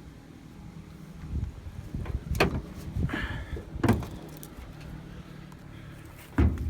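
Handling noises: three sharp knocks or clunks, about a second and a half apart, over a steady low hum, with a brief pitched squeak or murmur between the first two.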